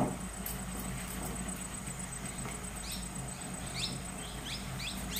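A knock as the bamboo puttu tube is set down on the aluminium steamer pot's neck, right at the start. About halfway through, a small bird begins chirping, a quick falling note about every half second, over a low steady hum.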